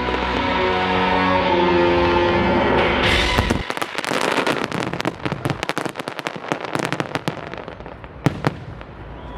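Orchestral show music plays for about three and a half seconds and stops, then fireworks crackle and bang in a dense rapid series that thins out toward the end, with one louder bang near the end.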